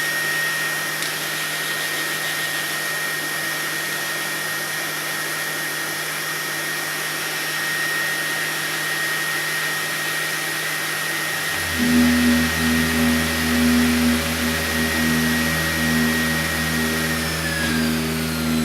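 Sound-installation piece: a steady rushing hiss like a blower, with one high whistle held above it. About two-thirds of the way through, low sustained tones come in, the upper one pulsing. Near the end the whistle slides down in pitch.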